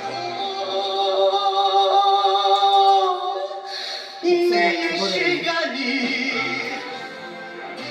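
A solo singer performing a trot ballad over backing music, holding long notes with vibrato. After a short break about four seconds in, a new phrase begins.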